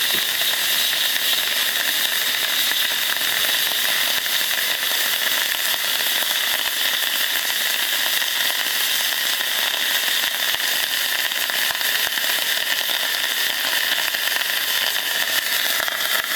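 Water boiling off in the steam generator of a very hot Koster sauna stove: a steady hiss with fine crackling and spitting as the water flashes to steam.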